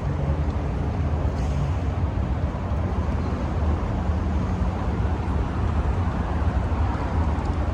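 A car engine idling steadily, a low even hum under a haze of parking-lot noise.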